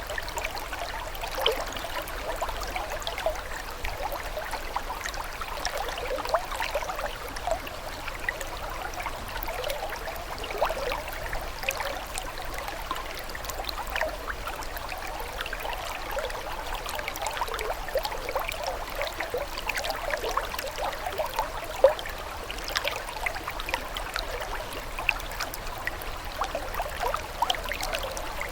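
Running water trickling and gurgling steadily, with many small quick blips.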